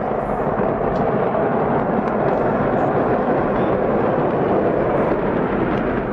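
A large fire burning in a fireworks warehouse, a steady rushing noise with a few faint cracks.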